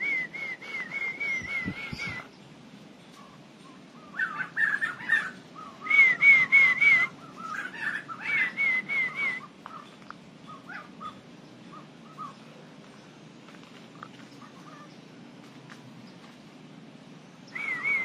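Caged birds calling: a warbling whistle repeated in short phrases of one to two seconds, with lower chattering notes between the early phrases. It falls quiet for several seconds, and one more whistled phrase comes near the end.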